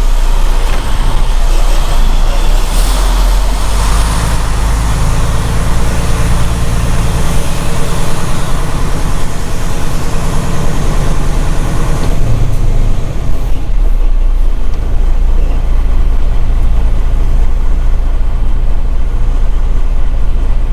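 Semi truck's diesel engine running with a steady low drone. A hissy upper layer over it falls away suddenly about twelve seconds in.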